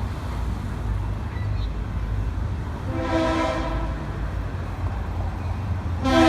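A freight train's locomotive air horn sounds a short chord blast about three seconds in, then a louder, longer blast near the end, over the train's steady low rumble.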